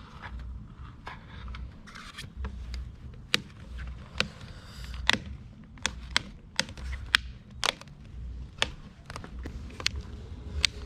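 Sharp, irregular plastic clicks and taps, roughly two a second, as a carbon fiber side mirror cover is pressed and worked onto the mirror housing, over a low rumble.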